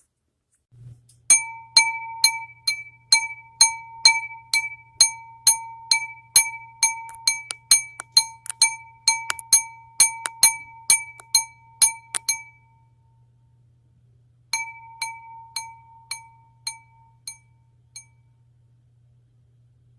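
Repeated ringing clinks of struck glass, about two a second, each note ringing briefly at the same clear pitch. They stop for about two seconds, then resume and fade out. A steady low hum runs underneath.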